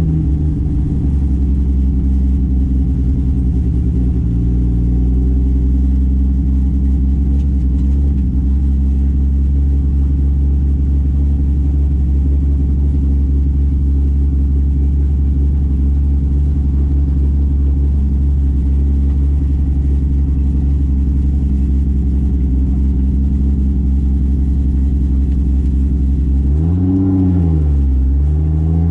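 Single-turbo 2JZ inline-six in a Toyota Soarer, heard from on board, running at a steady engine speed. Near the end the pitch drops and then climbs back up.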